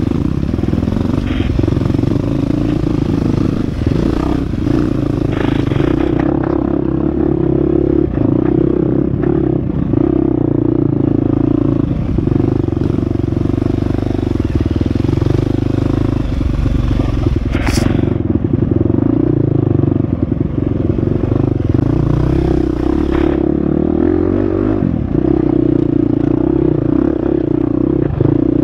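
Husqvarna FX 350 four-stroke single-cylinder dirt bike engine running hard on a trail ride, its note rising and falling with the throttle. The bike clatters and scrapes over rough ground, with one sharp knock about 18 seconds in.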